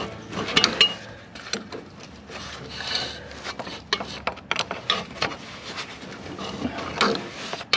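Irregular clicks, knocks and scraping rubs as the 1958 MGA's engine, stuck for years, is turned over slowly by hand at its fan.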